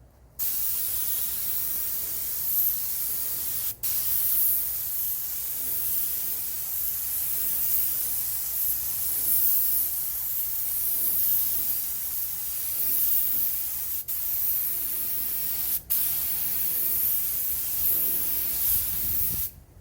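Compressed-air paint spray gun hissing steadily as it sprays a coat of primer, with three very short breaks where the trigger is let off.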